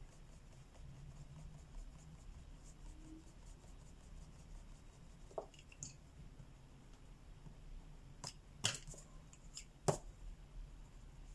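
Faint scratching of colouring on paper, with a few sharp taps and clicks, the loudest two about nine and ten seconds in, over a low steady hum.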